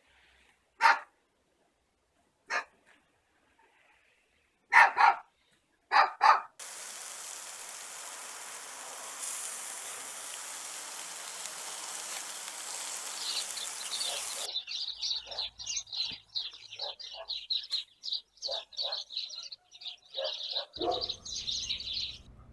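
A dog barks singly four times, a second or two apart. Then a steady hiss cuts in abruptly, and a flock of small birds starts chirping busily in a high, dense chatter that stops suddenly near the end.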